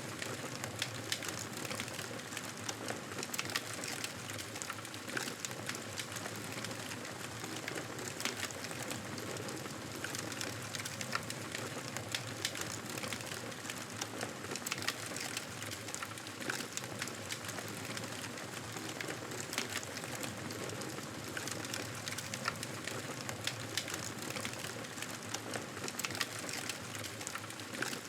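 Wood fire crackling in a fireplace: a steady hiss with frequent, irregular small pops and snaps.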